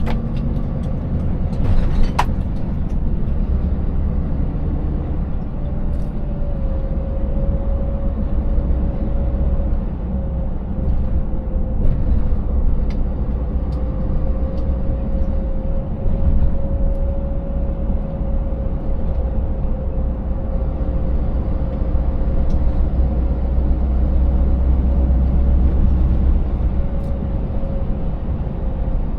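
Scania 590S V8 truck driving: a steady low engine and road rumble. A steady tone joins about six seconds in and holds. A few sharp knocks come near the start.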